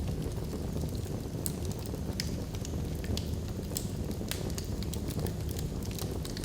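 Wood log fire burning in a fireplace: many irregular sharp crackles and pops over a steady low rumble of flames.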